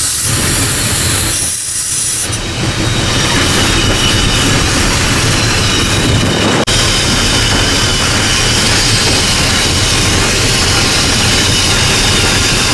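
Steam locomotive Ww 644 under way, heard from inside its cab: a loud, steady mix of running noise, hiss and wheels on the rails, with a brief dip about two seconds in.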